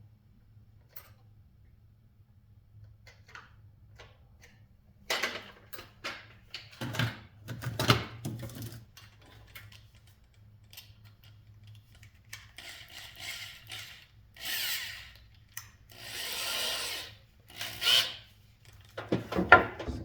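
Drill bit boring out and enlarging holes in a fan motor's metal bushing housing, run in several short bursts of about a second each in the second half. Handling knocks and clatter come before the drilling.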